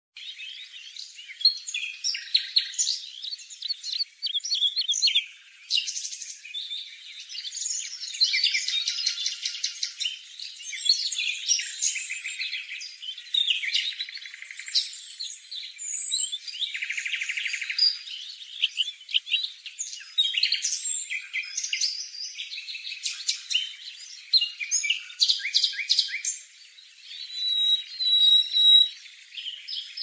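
Birdsong: a busy, varied run of high-pitched chirps, whistles and rapid trills, with no low notes at all.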